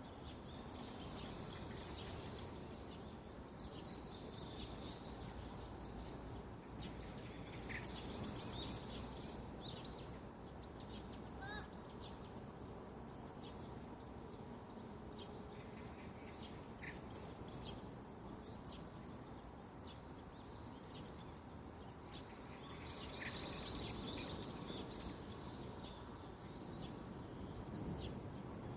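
Wild songbirds singing: four bursts of rapid high notes, roughly every seven seconds, with scattered short chirps in between, over a steady low background rumble.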